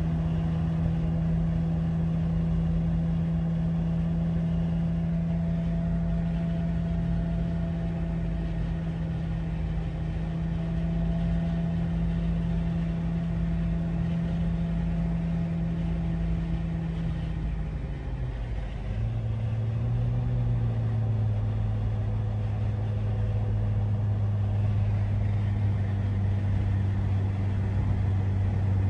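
2005 Jeep Wrangler TJ's 4.0-litre inline-six running at highway cruise, heard from inside the cabin with road noise. The engine drone is steady, then drops in pitch about 18 seconds in and settles into a lower steady drone as the revs fall.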